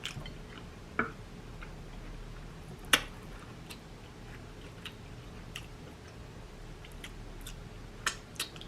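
Eating sounds close to the microphone: chewing seafood boil with scattered short wet clicks and smacks, the sharpest about three seconds in and two more close together near the end.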